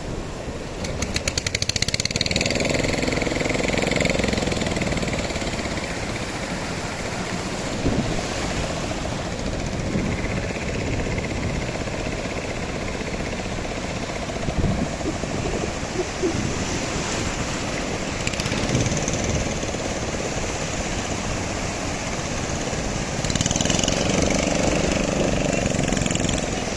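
Boat engine starting, with a rapid rattle about a second in, then running and rising in level twice, over steady wind and surf noise.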